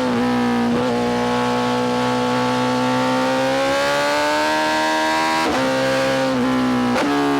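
BMW S1000RR inline-four engine through a full titanium Spark exhaust, running hard at high revs. The note climbs slowly through the middle and is broken briefly by several quick dips in pitch.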